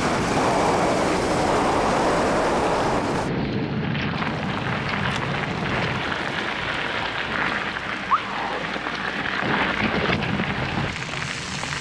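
Wind buffeting the microphone during a ride, a dense rumble with no clear rhythm. A short rising whistle sounds once about eight seconds in.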